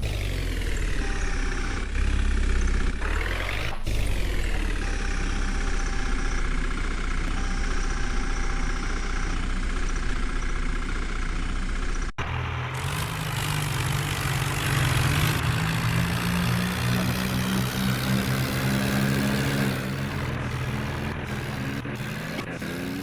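Heavy diesel vehicle engines running. The engine note swings in pitch twice in the first few seconds. About halfway through, the sound changes abruptly to a lower, steadier engine drone.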